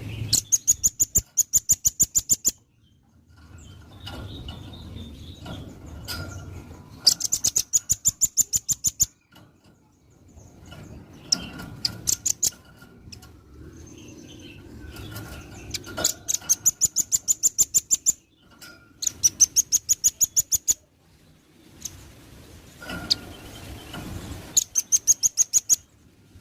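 Velvet-fronted nuthatch trilling: fast runs of sharp, high notes, about seven a second, in about five bouts of some two seconds each, with short pauses between.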